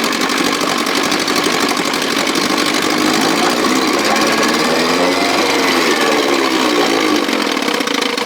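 1957 Sea King 5 hp two-stroke outboard motor running at a steady speed, its pitch swinging up and back down about halfway through as it surges. The motor is running short of fuel from its primer bulb.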